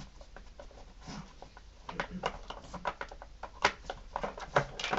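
A dog hunting for treats: scattered light clicks and knocks as it noses and paws about, with a few faint low sounds in between.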